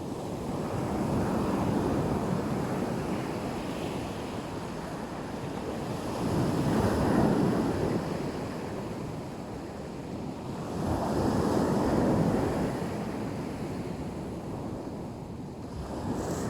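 Black Sea surf breaking on the shore: three waves swell and wash back, about five seconds apart.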